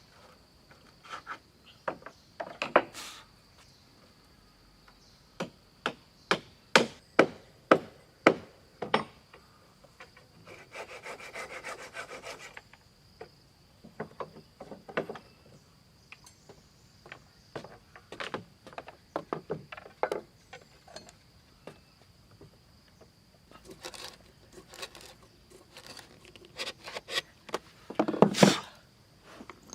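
Wood being worked by hand tools: irregular sharp knocks and taps of wood, with a cluster of the loudest strikes near the end. About ten seconds in comes a couple of seconds of quick sawing-like rubbing. A faint steady high tone runs underneath.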